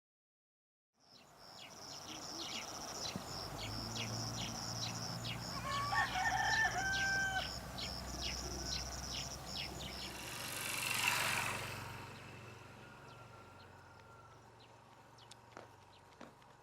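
Rural farmyard ambience: birds chirp in a fast repeating series, and a rooster crows about six seconds in, over a low steady rumble. About eleven seconds in, a rushing whoosh swells and fades, and the rest is quieter.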